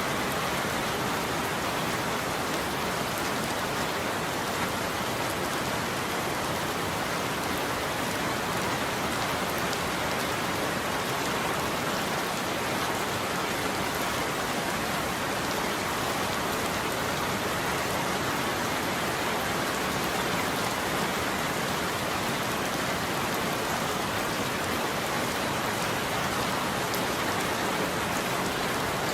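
Steady heavy rain falling, an even, unbroken hiss of drops with no thunder.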